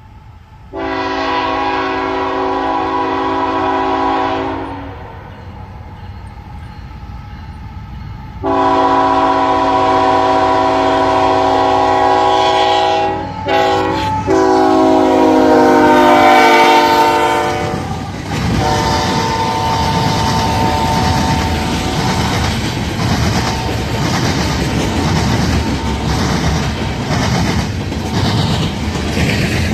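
Locomotive horn sounding a short blast, then a long one that falls in pitch as the locomotive passes. The train's cars then roll by, their wheels clacking rhythmically over the diamond crossing.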